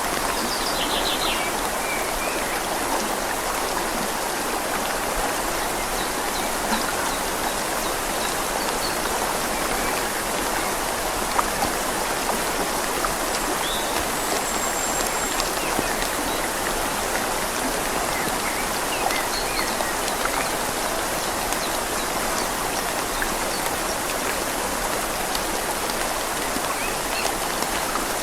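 Steady rain falling on leaves over the even rush of a flowing river. A few faint, short high chirps come through now and then.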